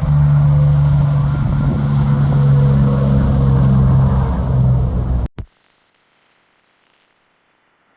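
Heavy truck's diesel engine running loud and steady with a deep hum, cutting off abruptly about five seconds in.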